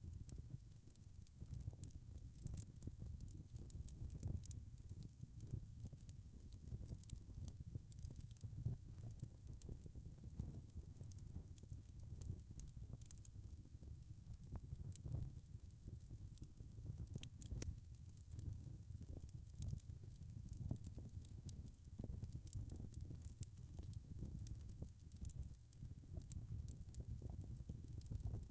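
Wood fire crackling: many small, irregular, sharp crackles and pops over a low, steady rumble of burning.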